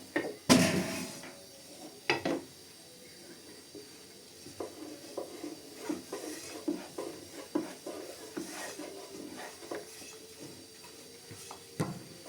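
Cookware and utensils knocking and clattering during bread-making. There is a loud clatter about half a second in and another near two seconds, then a run of light taps about twice a second, and one more knock near the end.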